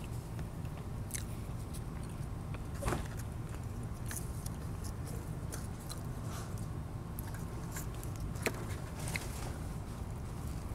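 A person eating: chewing with a few sharp clicks and small crunches, over a steady low background hum.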